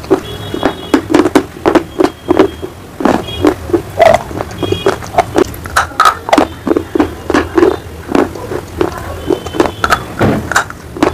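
Close-miked biting and chewing of brittle slate or baked-clay pieces: a rapid, irregular run of sharp crunches, about two to three a second.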